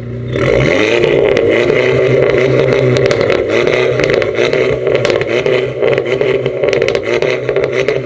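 Modified car engine revved up sharply and held on a two-step launch limiter, running at a steady high rpm with a rapid crackle of exhaust pops.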